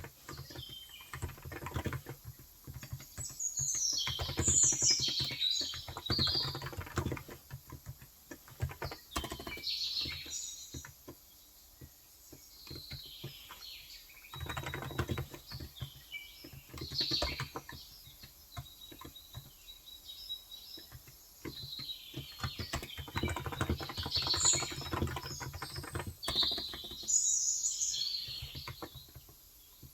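Typing in bursts on a Cox Endeavour electro-capacitive (Topre-style) tenkeyless keyboard with light 35 g switches, with short pauses. Birds chirp over it in several flurries, loudest near the start and again about two-thirds through.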